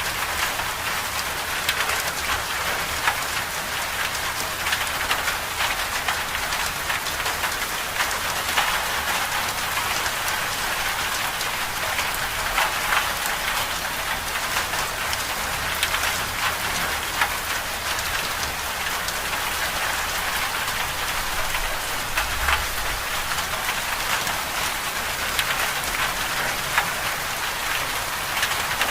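Winter storm ambience: a steady, dense hiss of precipitation with many small drop ticks throughout.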